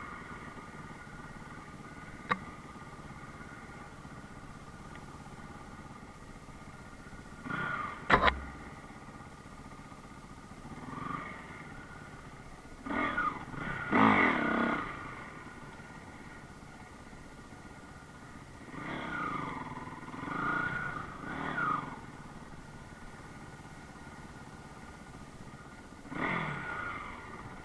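Enduro motorcycle engine running steadily and revved up several times, the biggest rev about halfway through, with a couple of sharp knocks.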